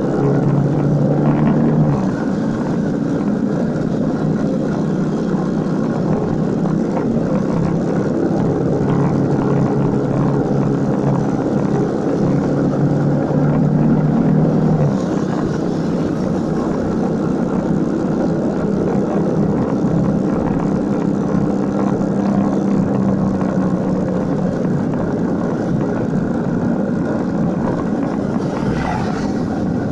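Motorcycle engine running while riding, with road and wind noise; the engine note eases off twice, about two seconds in and again about halfway through.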